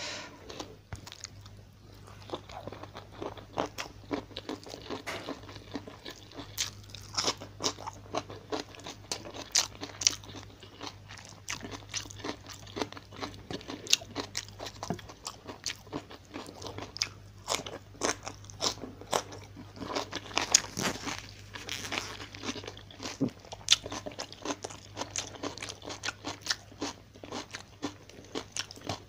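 Close-miked mouth sounds of a person eating fried tilapia and stir-fried bok choy by hand: crunching, chewing and wet smacking, with many sharp irregular clicks. A faint steady low hum runs underneath.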